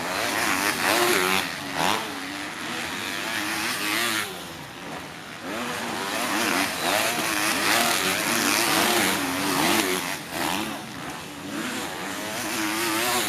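Several motocross bikes on track, their engines revving up and down through the gears, the sound swelling as bikes pass about a second in and again in the second half.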